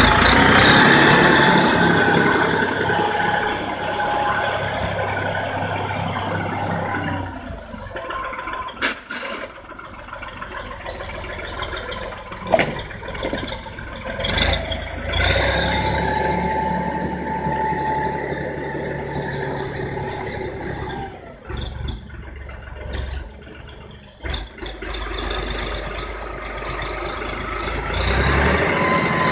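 Erkunt Nimet T 70 tractor engine running while it pulls a manure spreader, with the spreader's mechanism clattering. The sound swells and fades repeatedly as the tractor works back and forth: loud at first, dropping away about a quarter of the way in, loud again around the middle, then fading and returning near the end.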